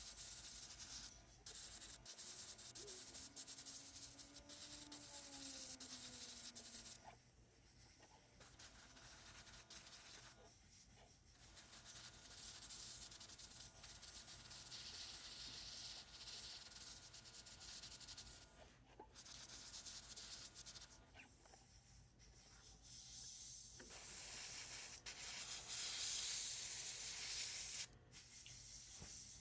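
Airbrush spraying paint in hissing stretches broken by short pauses, with a faint steady low hum underneath. The airbrush is not working properly and the paint is not coming out as it should.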